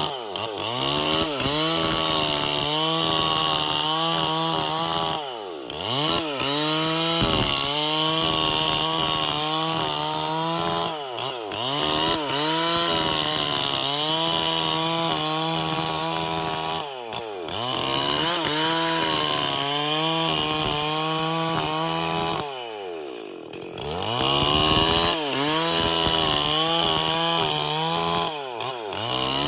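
Stihl MS440 two-stroke chainsaw running at high revs while cutting wood. Its revs dip and climb back about every five or six seconds, once more slowly about three-quarters of the way through.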